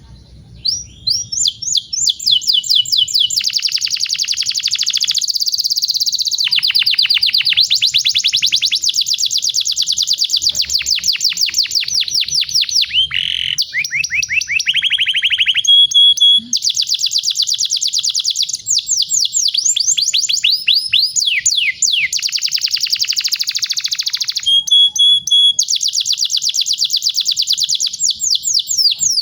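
Domestic canary singing a long, unbroken rolling song: fast trills of rapidly repeated notes alternating with runs of downward-sweeping notes, the phrase changing every few seconds, with a couple of brief held whistled notes. The song picks up about a second in.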